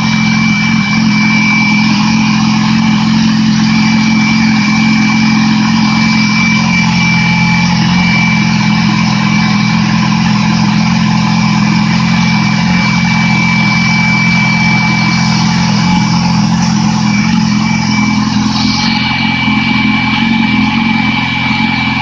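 2008 Yamaha YZF-R6 inline-four engine idling steadily on a stand, with a thin steady high whine alongside.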